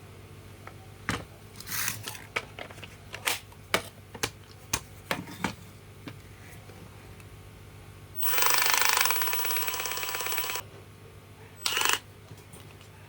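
Handling clicks and knocks, then a Makita DHR182 cordless rotary hammer runs for about two and a half seconds with a rapid hammering rattle, and gives one short burst near the end. It is running with the unusual noise that the repair traces to a broken 625 bearing in the gearbox.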